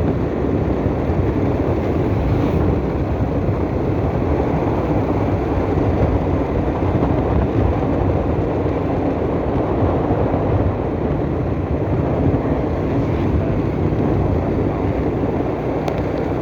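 Steady noise of a moving vehicle on the road, engine and rushing wind with wind buffeting the microphone, loud and unbroken throughout.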